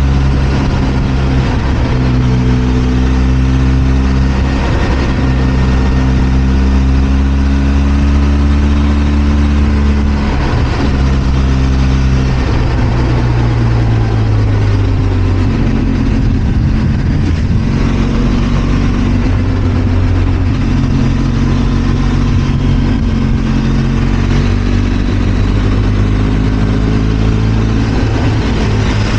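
Benelli TRK 502 X parallel-twin engine running steadily while the motorcycle is ridden, its pitch shifting a few times around the middle as engine speed changes.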